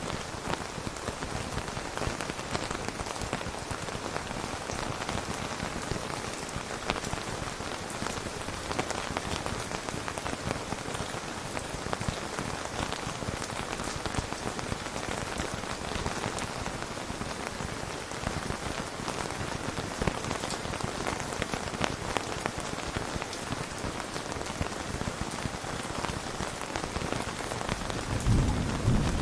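Steady rain falling, a dense even patter. Near the end a low thunder rumble starts to build.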